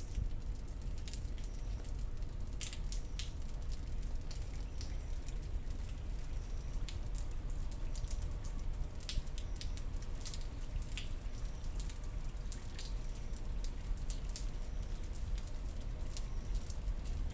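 Thunderstorm rain: irregular drops tapping and dripping close by over a steady low rumble.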